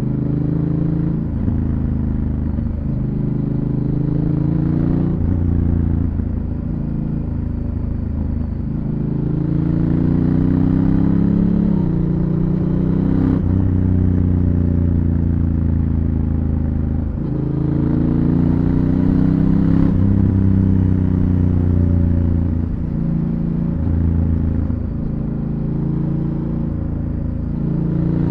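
Honda Africa Twin CRF1000L's parallel-twin engine through its stock exhaust, accelerating and easing off repeatedly. The pitch climbs, then drops suddenly at each automatic shift of the dual-clutch (DCT) gearbox, several times over.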